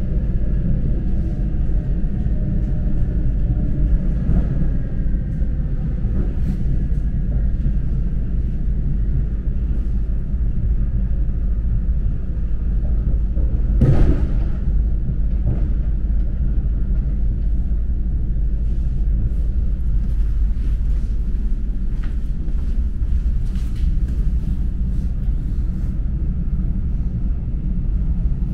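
Steady low rumble of a moving electric commuter train heard from inside the carriage, with a faint whine that falls slowly in pitch over the first few seconds. One sharp knock comes about halfway through, and a few light clicks follow later.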